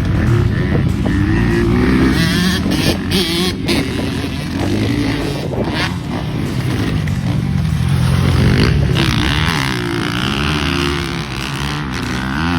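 Motocross dirt bike engine under hard riding, its pitch rising and falling again and again as the throttle opens and closes and it shifts gears.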